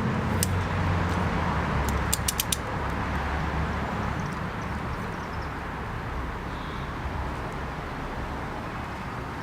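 A few sharp metallic clicks from hand tools being worked on the engine guard bolt: one near the start and a quick run of four about two seconds in. Under them a steady low rumble runs throughout.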